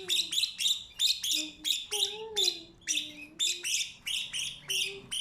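Budgerigars chirping in a fast, even run of short high calls, about four a second, during the feeding of a budgie chick.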